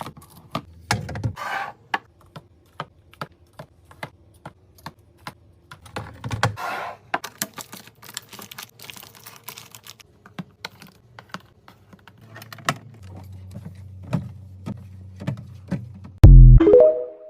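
Quick, light clicks and taps of plastic containers and packaging being handled and set down, with some rustling. A loud thud comes near the end, followed by a short ring.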